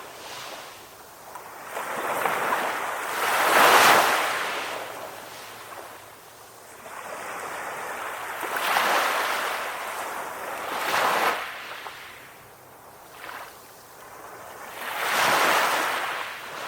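Calm ocean waves breaking and washing in, the surf swelling and ebbing in four surges a few seconds apart, the loudest about four seconds in.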